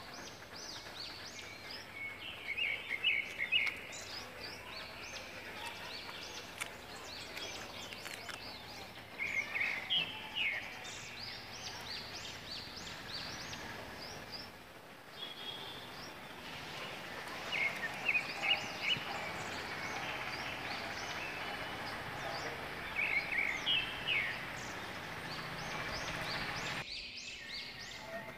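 Outdoor ambience with birds chirping: short runs of quick, high chirps recur every several seconds over a steady background hiss, which drops abruptly near the end.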